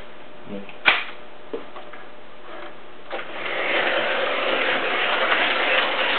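A sharp click about a second in, then from about three seconds in a model train's running sound starts up and builds into a steady noisy rush that holds on.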